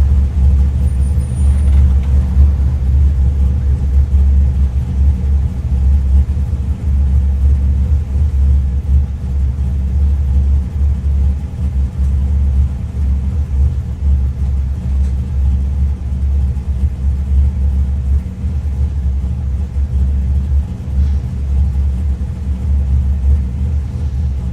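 Car engine running at a steady pitch, a loud low rumble that stays level without revving up or down.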